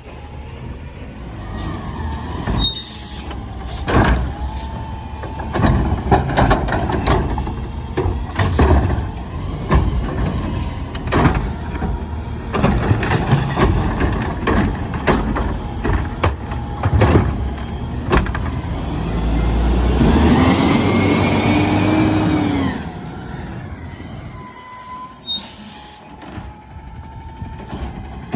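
Garbage truck at work: engine running under a string of sharp clanks and bangs, then about twenty seconds in a whine that rises and falls before the noise drops back to a quieter run.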